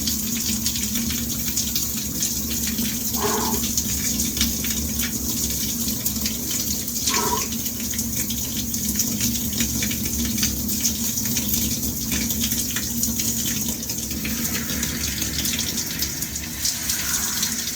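Shower spray running steadily onto a person, with two brief vocal noises about three and seven seconds in.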